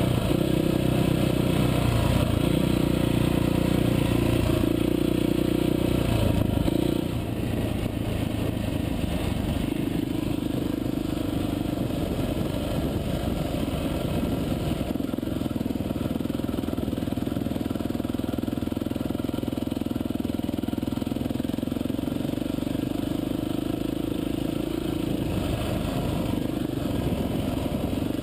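Dirt bike engine running steadily while riding, its note dropping a little about seven seconds in.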